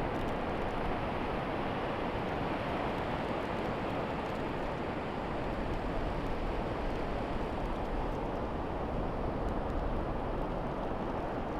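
Steady rushing noise of wind and surf on an exposed beach, with no distinct events.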